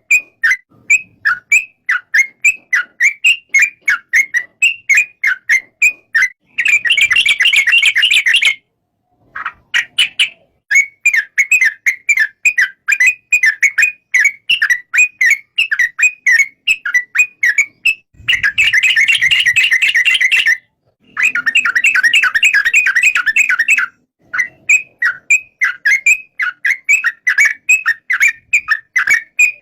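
Yellow-vented bulbul chirping rapidly: short, loud, high calls repeated about three to four times a second, with denser stretches of continuous calling. The calling cuts off abruptly for a moment twice, about 9 and 21 seconds in.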